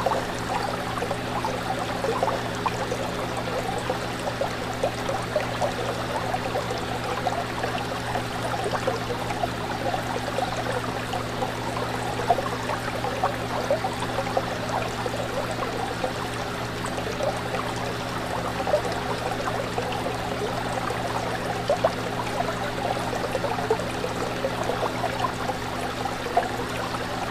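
Fish tank water bubbling and trickling continuously, with scattered small pops, over a steady low hum.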